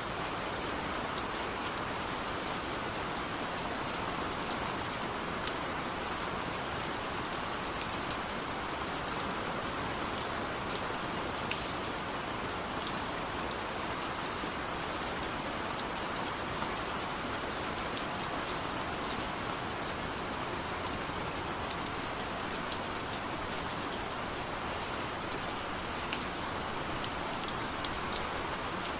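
Steady rain falling, a constant even hiss with scattered individual drop ticks on a surface; no thunder is heard.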